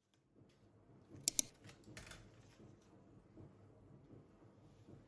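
Two light, sharp clicks in quick succession about a second in, then a fainter click and soft handling sounds in a quiet room.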